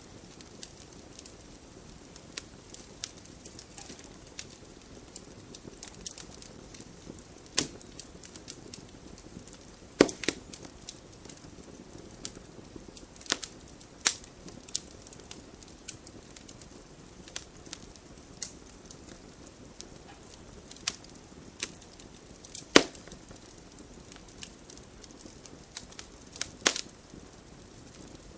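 Wood fire burning in a fireplace: a low steady hiss with frequent sharp crackles and pops from the burning logs, a few of them much louder, about 10 and 23 seconds in.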